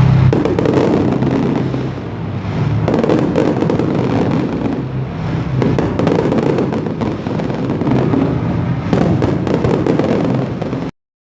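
Fireworks going off in a continuous barrage of bangs and crackles, swelling again every few seconds, then cutting off suddenly near the end.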